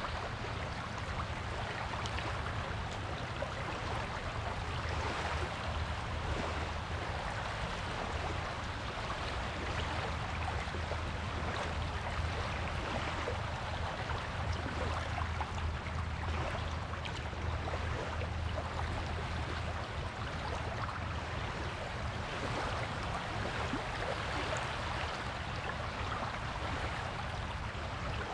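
Waves washing on a beach: a steady hiss of surf with a low rumble underneath, no single wave standing out.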